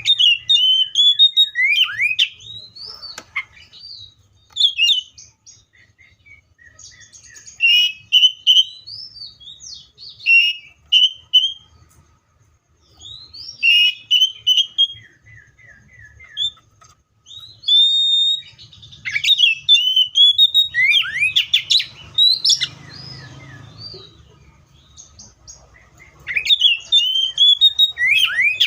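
Magpie-robin singing loudly in phrases of quick, varied whistles and up-and-down slurred notes. Each phrase is separated by a pause of a second or two.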